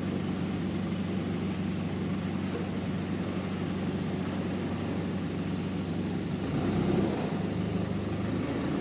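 Sawmill machinery running steadily with a low, even hum, swelling briefly about seven seconds in.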